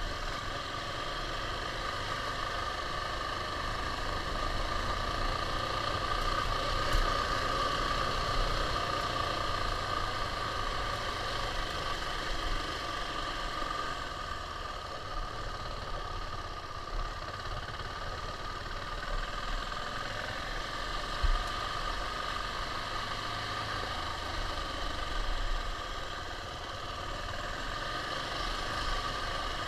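KTM 690's single-cylinder four-stroke engine running at a fairly steady speed, with a short sharp knock about two-thirds of the way through.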